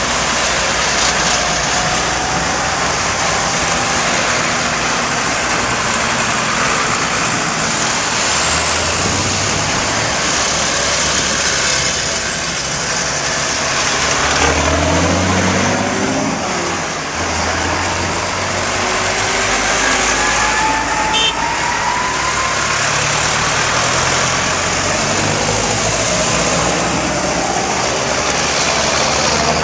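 Tractors driving past in a procession, several engines running together, with one engine's note rising about halfway through.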